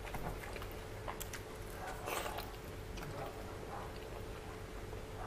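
Close-up eating sounds of a person chewing saucy pork curry and rice: wet mouth smacks and sticky clicks, a louder run of them about two seconds in, over a faint steady hum.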